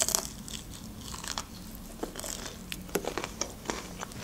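Close-miked mouth sounds of a person biting and chewing crispy fried chicken: scattered crunches and small wet clicks, the sharpest bite right at the start.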